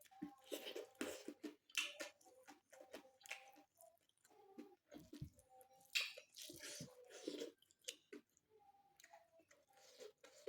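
A person chewing food close to the microphone: irregular mouth clicks and smacks, the loudest about six seconds in.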